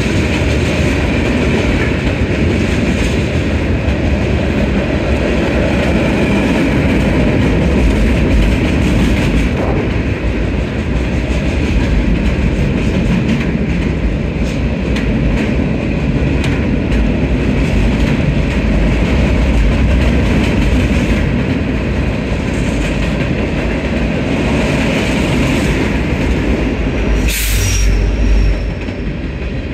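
Norfolk Southern freight train's tank cars and boxcars rolling past, with a steady heavy rumble of steel wheels on rail and light clicking from wheels crossing rail joints. A brief high hiss comes near the end, and the rumble eases slightly after it.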